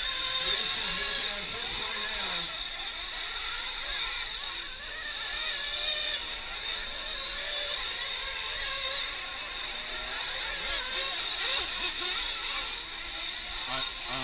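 Several small nitro-fuelled RC truck engines racing around a track, their high-pitched whine rising and falling as they are throttled up and down, with faint voices in the background.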